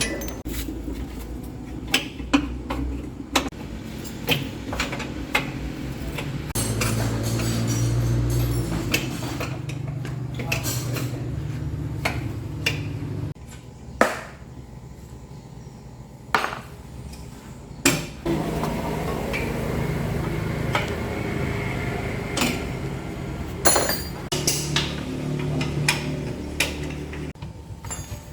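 Metal tools clinking and knocking against metal in irregular strikes, as during hands-on work on a truck. A steady low drone runs underneath, dropping away for a few seconds in the middle.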